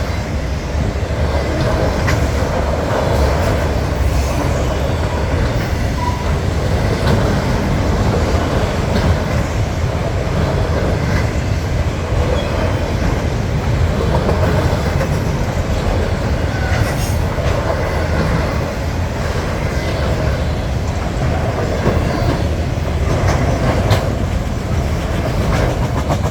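Freight train cars rolling steadily past at close range: a continuous loud rumble with steel wheels clacking over the rail joints.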